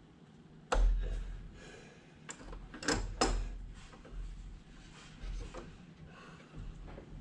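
A few sharp knocks and clicks of metal and plastic parts being handled and fitted during truck reassembly, the loudest about a second in and a cluster of three around the middle.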